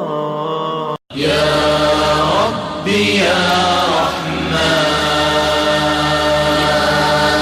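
Chanted vocal music with long held notes and no instruments evident. The sound cuts out briefly about a second in.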